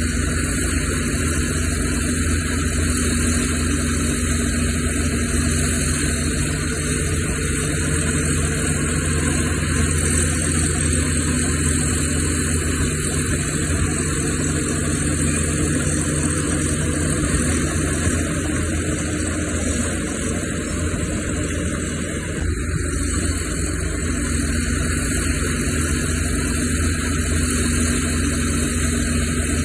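Heavy-equipment diesel engine running steadily, with an even hum that barely changes in loudness.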